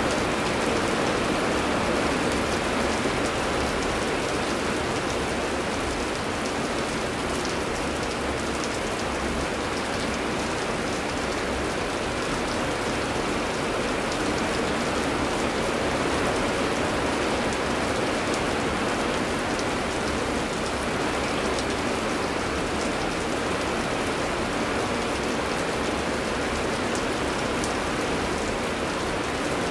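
Heavy rain falling steadily: an even hiss with a dense patter of fine drops, with no thunder.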